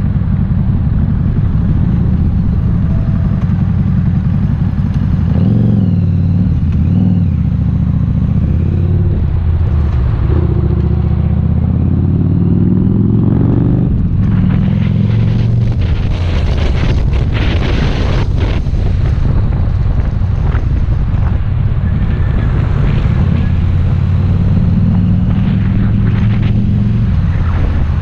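Harley-Davidson Street 750's V-twin engine running under way, its pitch dipping and then climbing several times with throttle and gear changes. Wind buffets the helmet-mounted camera's microphone, most strongly a little past halfway through.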